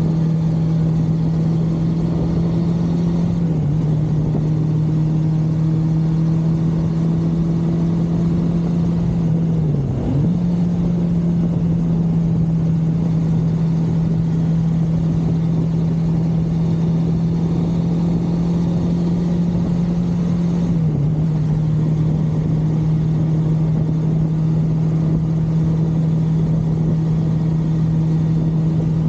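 1982 Suzuki GS550L's air-cooled inline-four engine running at a steady cruising speed, heard from on board the motorcycle with wind rush. The engine note dips briefly and comes back three times, about 3, 10 and 21 seconds in.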